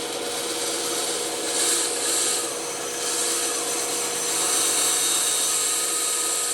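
Bandsaw running with a steady hum, its blade cutting through wood; the high cutting hiss swells and eases as the piece is fed into the blade.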